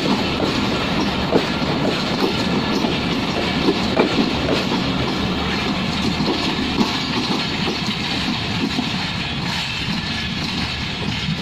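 Passenger train of LHB coaches rolling past on the rails: a steady, loud rumble with scattered wheel clicks over the rail joints, easing slightly near the end.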